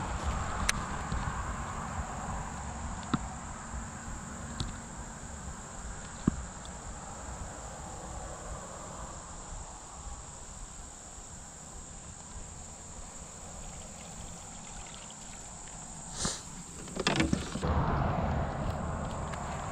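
Insects giving a steady high-pitched drone over a low rumble, with a few scattered clicks and a short run of knocks near the end.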